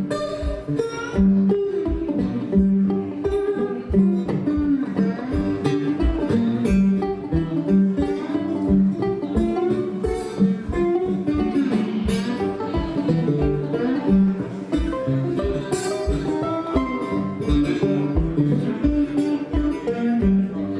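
Instrumental break of a country-bluegrass song: plucked string instruments, led by guitar, playing over a steady low beat.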